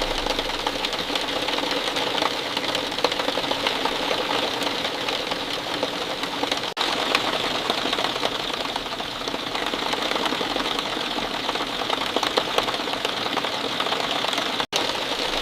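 Steady rain falling, a dense patter of many small drops, dropping out for an instant about seven seconds in and again near the end.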